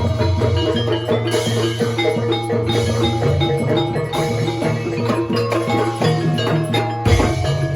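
Gamelan-style jaranan music: quick, busy runs of struck metallophone notes over drums and a steady low tone, playing continuously.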